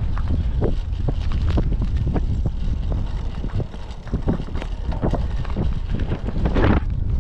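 Typhoon wind buffeting the microphone in a constant heavy rumble. Many short knocks and rattles run through it, and a louder gust comes near the end.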